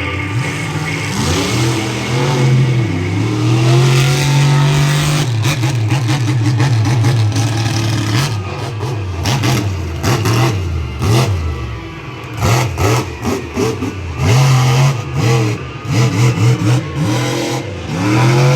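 Monster truck engine revving hard, its pitch rising and falling again and again, with a run of sharp bangs and clatter through the middle and later part.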